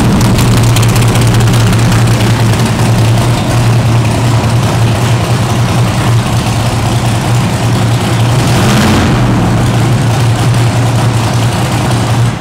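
1969 Chevrolet Corvette L88's 427 big-block V8 idling loudly through its side-exit exhaust pipes, steady and even, with one short blip of the throttle about three-quarters of the way through.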